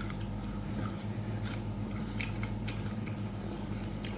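Crisp crackling skin of a roasted pork hock crunching as it is chewed and torn apart by hand: scattered short, sharp crackles over a steady low hum.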